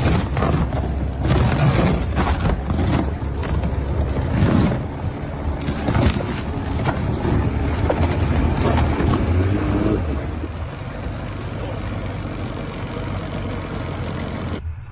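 Small boat's outboard motor running as the hull breaks through thin ice, cracking and crunching the ice in a rapid string of sharp cracks over a steady low engine drone. About ten seconds in the cracking thins out and the engine runs on more evenly.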